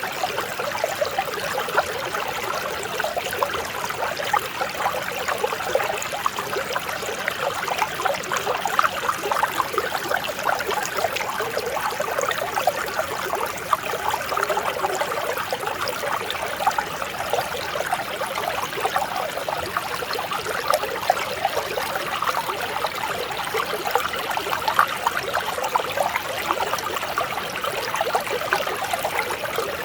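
Mountain stream running steadily over rocks, a continuous bubbling and trickling of water.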